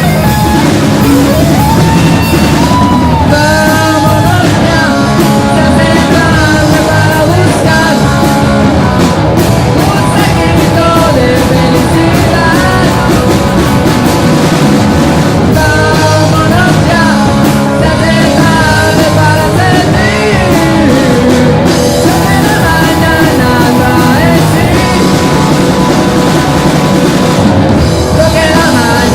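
Live rock band playing a song: electric guitars, bass guitar and drum kit, with a voice singing over them.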